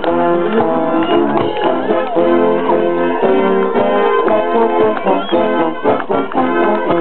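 Brass music playing: several horns sounding held notes and chords that change every second or so.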